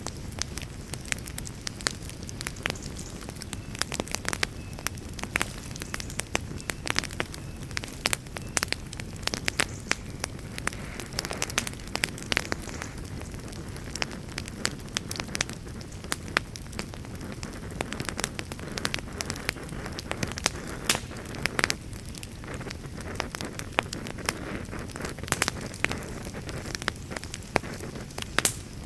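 Wood campfire crackling: a dense, irregular run of sharp pops and snaps from burning logs over a steady low rush.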